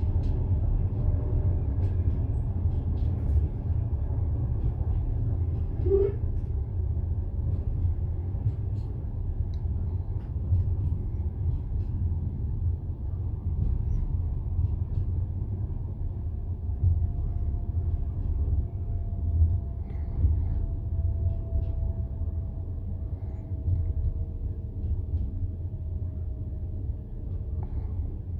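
Passenger train carriage in motion: the steady low rumble of the wheels running on the rails, heard from inside the car.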